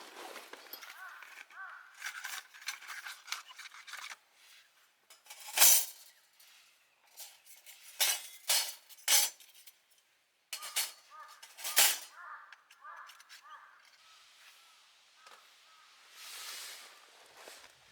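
Metal camp gear being handled: a run of sharp clinks and knocks, the loudest about six seconds in and a cluster between eight and twelve seconds.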